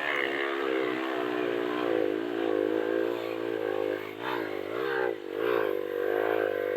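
Trail motorcycle engine running under throttle, held fairly steady at first, then rising and falling in pitch several times in quick revs through the second half.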